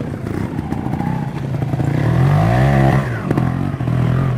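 Trials motorcycle engine running and revving: its pitch rises about two seconds in and drops back a second later.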